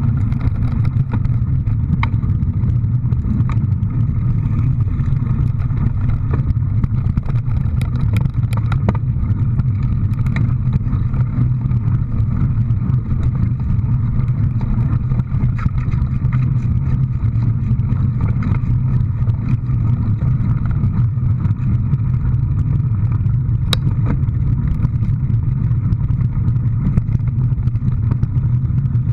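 A motor vehicle running steadily with a constant low hum, with a few sharp clicks or rattles about 2 s, 8 to 10 s and 24 s in.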